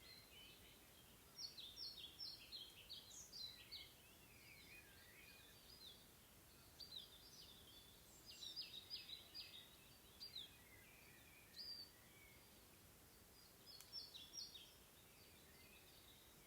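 Faint songbirds singing in short phrases of quick, high chirping notes, with pauses of a second or two between phrases, over a light steady hiss of outdoor ambience.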